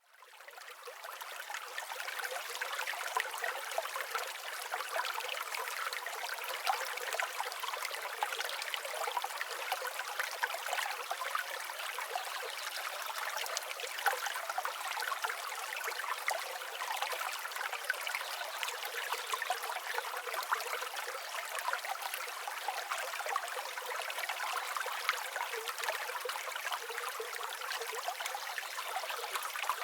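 Steady running water, like a trickling stream, with a fine crackle and no deep rumble. It fades in over the first two seconds.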